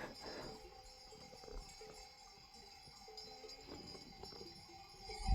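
Sheep bells on a grazing flock clinking faintly and irregularly. A loud low rumbling noise comes in right at the end.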